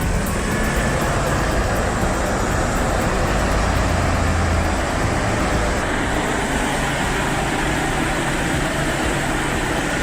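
Heavy transport truck engine running slowly under load, a steady low rumble that swells for a second or so about four seconds in.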